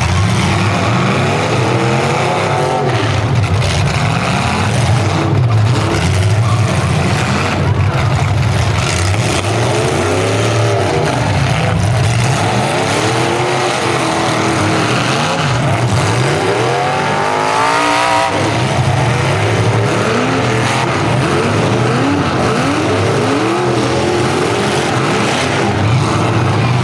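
Several old full-size demolition derby cars' engines revving and running hard at once, their pitches climbing and falling over each other, with occasional short knocks.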